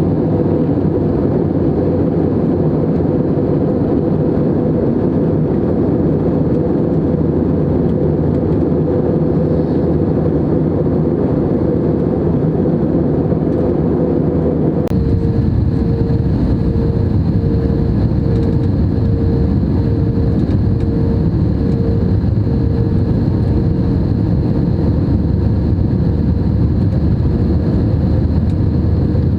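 Airbus A320neo cabin noise in flight: a steady roar of the engines and airflow. About halfway it changes abruptly, and a faint hum then pulses about once a second.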